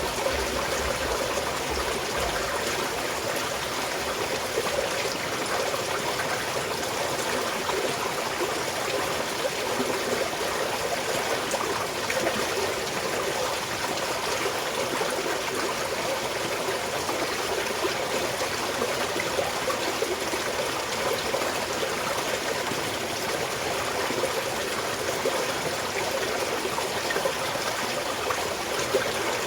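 Small mountain stream flowing and trickling over stones: a steady, continuous babble of running water.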